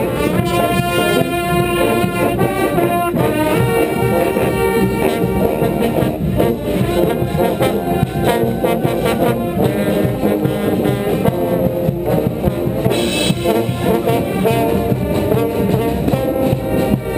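Street brass band playing loudly, trombones and trumpets carrying the tune over a steady percussion beat.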